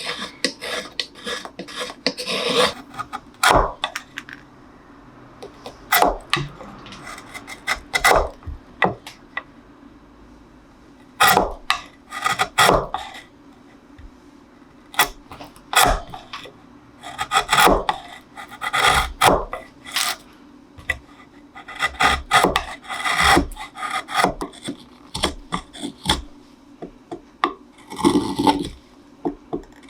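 Hand tools shaving and scraping the wood of a cello neck: irregular strokes of varying length with short pauses between them, and a few sharp clicks.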